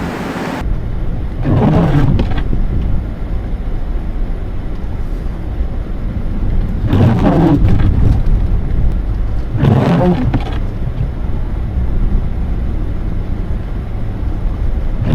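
Vehicle engine running with a steady low rumble, surging louder three times.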